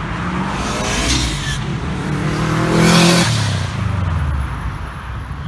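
A car driving past under acceleration, its engine revving; it is loudest about three seconds in and then fades.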